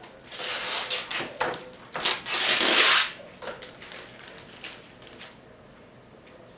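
Plastic packaging rustling and rubbing as it is pulled off a new robot vacuum cleaner. The loudest stretch is a burst lasting about a second, starting two seconds in, followed by a few light clicks.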